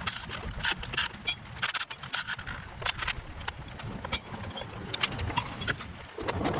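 Irregular clinks, knocks and clatter of metal parts and tools being handled and set down, a few of the hits ringing briefly.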